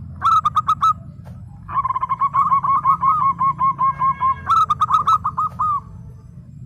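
Zebra dove (perkutut) singing: a short run of rapid staccato coos, then after a brief pause a longer run of rapid coos lasting about four seconds that ends in a quicker phrase.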